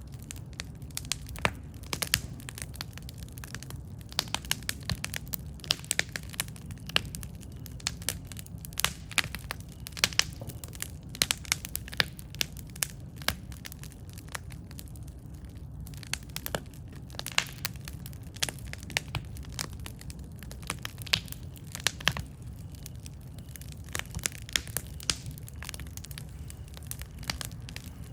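Wood campfire crackling: frequent irregular sharp pops and snaps over a steady low rumble of burning.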